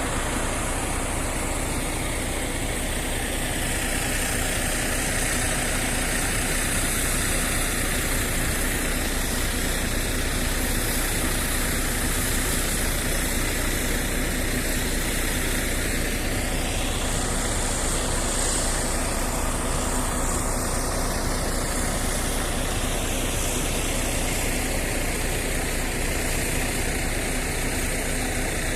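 A road vehicle's engine running steadily, an even hum and noise with no changes.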